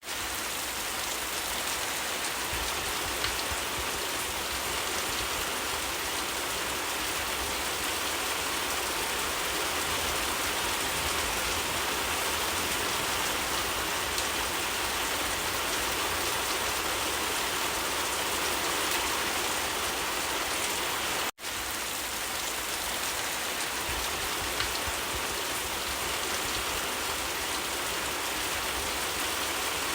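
Steady rainfall: a dense, even hiss of rain. It cuts out for a split second about two-thirds of the way through.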